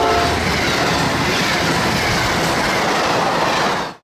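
Amtrak Acela high-speed electric train passing close at speed: a loud, steady rush of air and wheels on rail with a low rumble underneath. It cuts off suddenly just before the end.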